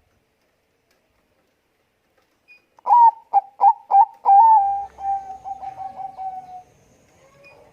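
Zebra dove (Bangkok perkutut) song: after a silent start, a few sharp staccato coo notes followed by a long, fast-pulsing trilled coo that fades out.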